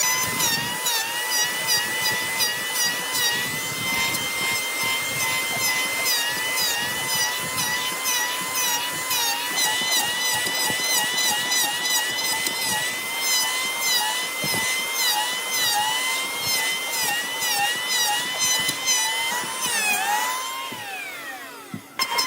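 Electric woodworking power tool running with a steady, slightly wavering whine and a fast rattle, then switched off and winding down in pitch near the end.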